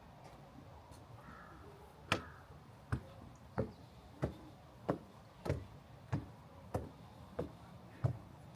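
Footsteps of a person walking at an even pace, starting about two seconds in, roughly one and a half steps a second. Each step is a short, sharp knock.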